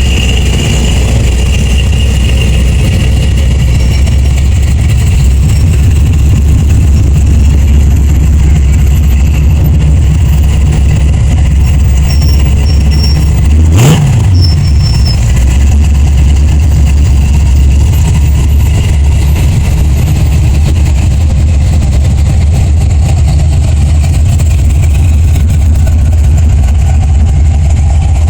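Car engines rumbling steadily as a parade of cars, hot rods among them, drives slowly past, with one brief sharp click about halfway through.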